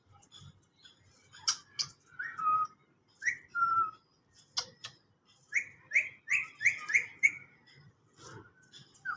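Green parrot whistling and chirping: two falling whistled notes, then a quick run of about six short falling chirps, with a few sharp clicks in between.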